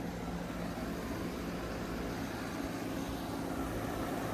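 Carrier Comfort heat pump outdoor unit running: a steady whoosh from the condenser fan over a low, even hum.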